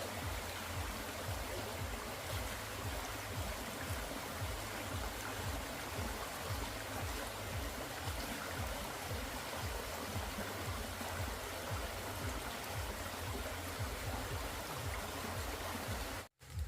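Steady rushing noise with a fluctuating low rumble underneath; it cuts off suddenly near the end.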